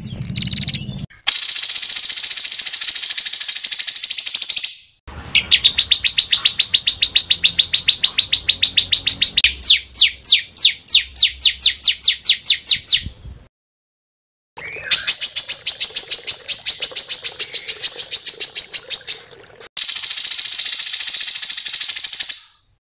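Small songbird singing loud, high-pitched bursts of rapid, dense and harsh repeated notes, four phrases separated by brief pauses. In the second phrase the notes slow into distinct, separate strokes before it stops.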